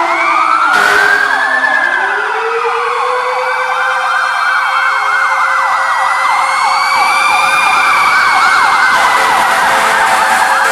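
Several fire apparatus sirens wailing at once, their pitches overlapping and sliding up and down.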